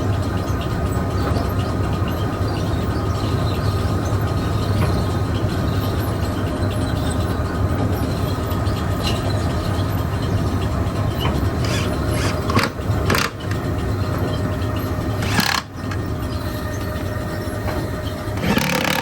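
Steady machinery drone with a low hum and a few thin steady tones. Several sharp knocks or scrapes break in over the last third.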